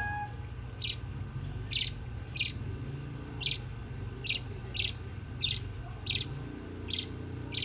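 Nine-day-old budgerigar chick giving short, repeated calls, about ten of them at a steady pace of roughly one every three-quarters of a second. A low steady hum runs underneath.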